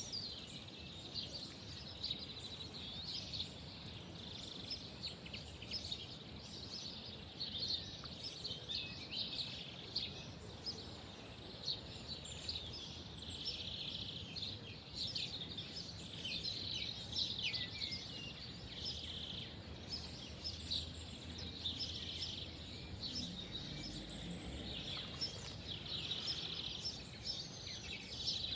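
Small birds chirping and singing outdoors, many short quick calls one after another over a steady low background hiss.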